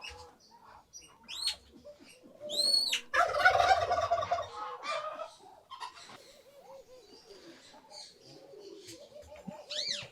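Domestic turkey gobbling once, a loud rapid warbling call about three seconds in, with a few high chirps and softer calls from other poultry around it.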